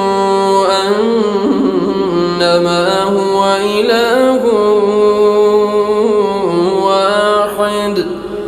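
A man's voice reciting the Quran in melodic tajweed, drawing out long, ornamented notes that bend up and down in pitch.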